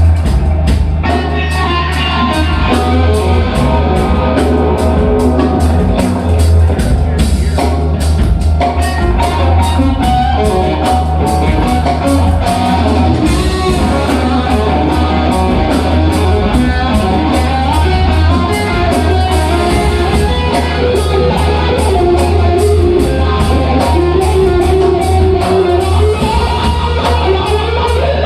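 A rock band playing live: distorted electric guitar over bass and drums with a steady beat, loud and heavily bass-weighted, with some singing.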